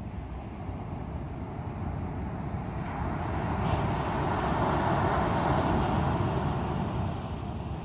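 Strong sea waves on the shore: a steady rushing wash of surf that swells about three seconds in as a wave breaks and eases off again near the end.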